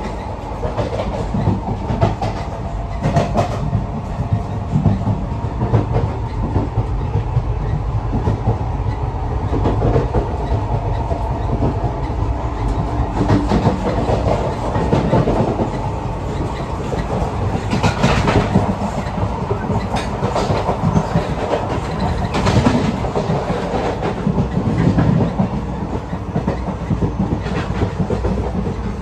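An old Indian Railways passenger coach running along the track: a steady rumble of wheels on rails, with sharp clicks and rattles now and then.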